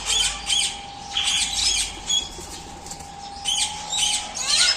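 Indian ringneck parakeets calling in clusters of short, harsh squawks and chirps, several bursts in a row.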